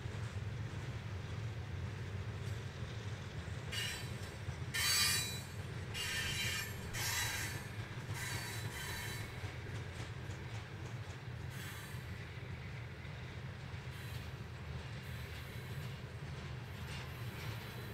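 Freight train of open-top hopper cars rolling past on the rails with a steady low rumble. Between about four and nine seconds in, the wheels squeal in several high-pitched bursts, with fainter squeals later.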